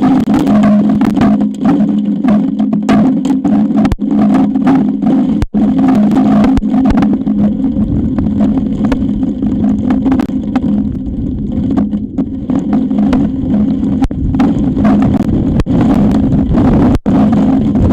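High wind battering an outdoor nest-camera microphone: a loud, steady rumble with a droning hum, growing stronger about halfway through, broken by a couple of brief cut-outs.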